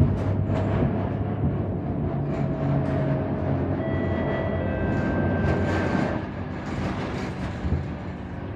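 Scania K230UB Euro IV city bus heard from inside while under way: the diesel engine hums low and steady under a faint whine, with rattles and knocks from the body. The sound drops noticeably about six seconds in.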